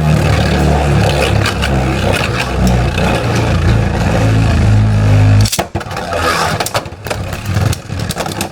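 Beyblade spinning tops, among them a 3D-printed Mystic Ultraus, spinning and grinding against each other in a plastic stadium: a steady whir that cuts off suddenly about five and a half seconds in, followed by lighter scattered clicks and clatter.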